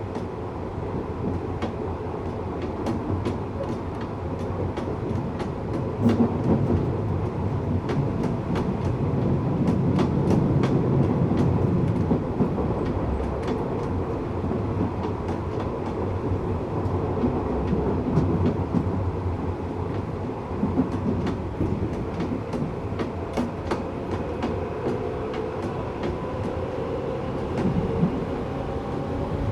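Tokyu 8500 series electric train running, with a steady rumble and wheels clicking over rail joints at irregular intervals. A motor whine rises slightly near the end from its Toyo-made DC traction motors.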